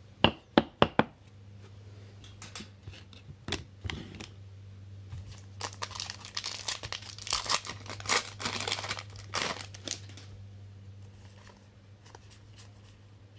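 A trading-card pack's wrapper being torn open and crinkled, with a dense run of crackling about halfway through. Four quick sharp snaps come in the first second as cards are handled.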